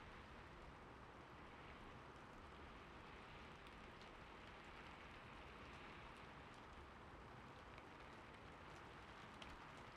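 Gentle rain, a faint, steady hiss, with a few soft, scattered clicks.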